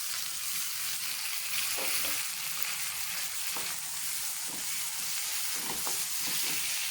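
Chopped vegetables stir-frying over a high flame, a steady sizzle, with soy sauce just added to the hot pan and a few light sounds of stirring.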